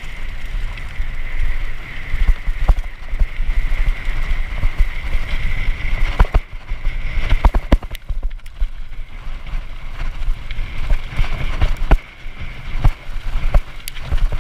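Hardtail mountain bike rolling down a rough, stony trail: a rumble of wind and tyres on the microphone, irregular knocks and rattles as the bike hits rocks and bumps, and a steady high buzz over it all.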